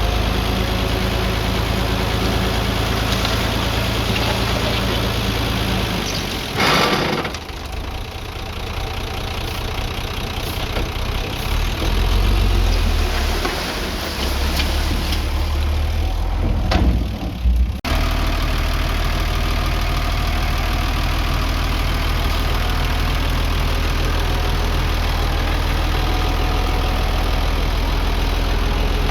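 Diesel engine of heavy earthmoving equipment running steadily, with a brief loud noisy surge about seven seconds in and an abrupt change to a steady engine sound about eighteen seconds in.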